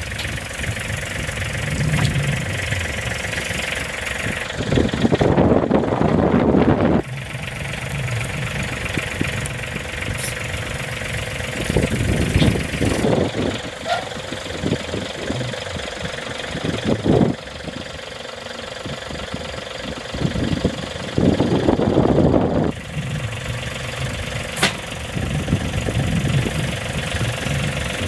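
John Deere compact tractor's diesel engine running steadily, growing louder twice for a couple of seconds each, about a fifth of the way in and again near the end.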